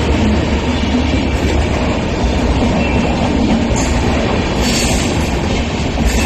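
Indian Railways Humsafar superfast train hauled by a diesel locomotive, running on the track: a loud, steady rumble of wheels on rail with a deep low drone. A brief hiss of higher noise comes about five seconds in.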